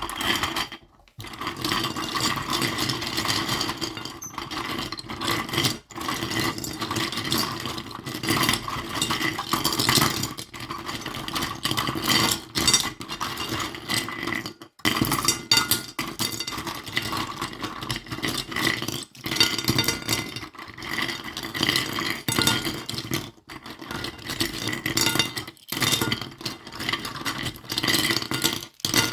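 Miniature toys being handled: a continuous run of small clinks, taps and scrapes, with a few brief pauses.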